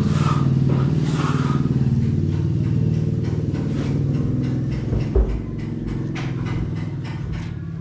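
A motor engine running steadily, easing off slightly. A single knock sounds about five seconds in.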